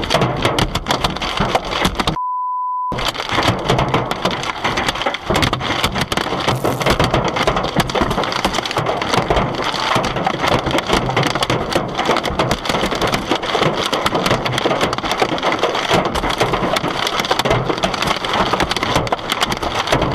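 Hailstones pelting a car in a dense, continuous clatter of hard hits. About two seconds in, a short steady bleep tone replaces it briefly, as a censor bleep does.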